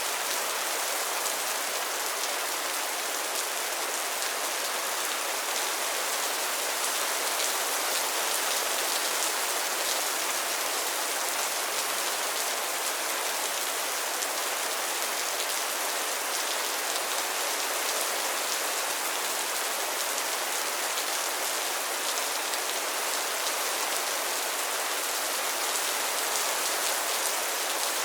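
Steady rain falling on pond water and lily pads: a dense, even hiss of many small drops that holds without let-up.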